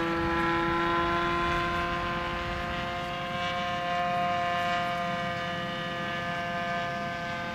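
Seagull Tucano radio-controlled model airplane in flight, its engine and propeller running at speed with a steady high-pitched drone. The pitch sags slightly and the sound fades a little in the second half.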